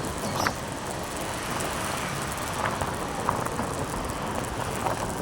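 Steady wind and road noise from a moving motorcycle, with a few faint short sounds.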